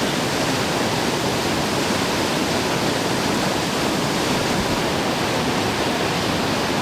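Fast white water rushing steadily down an artificial whitewater course, a constant loud roar of churning water.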